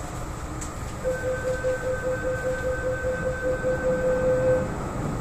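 Door-closing warning on an MTR East Rail Line R-train: rapid, even beeping at about four beeps a second, starting about a second in and lasting nearly four seconds, over the carriage's low background rumble.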